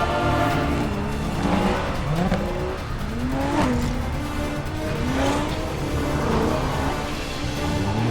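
High-performance car engines revving hard in repeated rising and falling sweeps through gear changes, with tyre squeal, in a film car chase mixed over orchestral score music.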